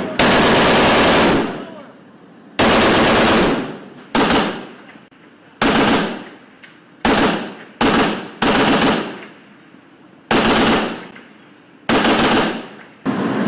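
Ship-mounted heavy machine gun firing in about ten short bursts, the first one the longest, each followed by a brief echoing tail.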